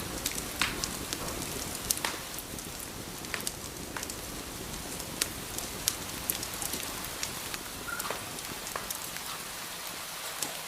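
Wood fire crackling in a fireplace: a steady hiss broken by sharp pops and snaps, a few a second.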